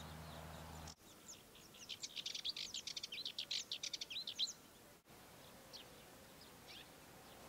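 A small songbird singing a fast run of short, high, thin notes lasting about two and a half seconds, with a few scattered single high calls before and after.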